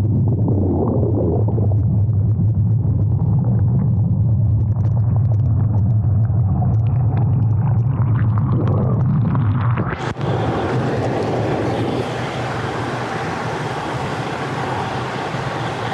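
Hot-tub water recorded with the camera submerged: a loud, muffled, steady rumble of churning water and jets. About ten seconds in the camera comes out of the water and the sound turns suddenly to a brighter hiss of bubbling water.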